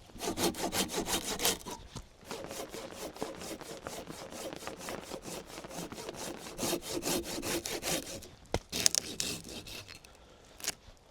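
Hand saw cutting through a log with quick back-and-forth strokes, pausing briefly twice, with a sharp knock just before the last run of strokes.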